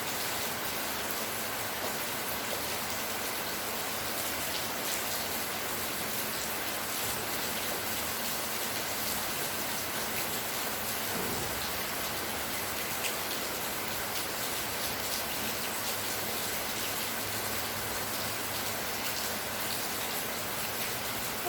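Steady rain falling: a dense, even hiss of drops with fine scattered patter, holding at one level throughout.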